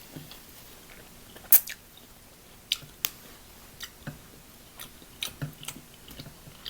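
Close-up eating of seafood-boil crab and shellfish: one sharp crack about a second and a half in, then scattered clicks and short wet chewing smacks.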